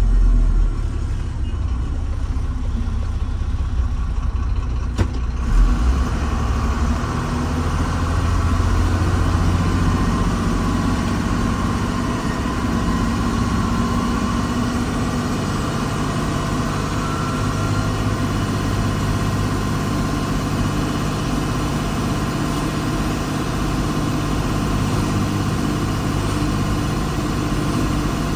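Diesel engine of heavy earthmoving equipment running steadily, with a short click and a thump about five seconds in.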